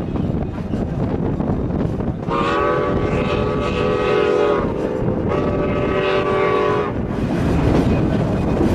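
Steam locomotive's chime whistle sounding two long blasts, each a steady chord of several notes, over the steady rumble of the narrow-gauge train running along the track.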